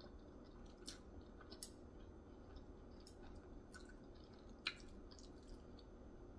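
Faint chewing and wet mouth sounds with a few soft clicks, the sharpest about three-quarters of the way through.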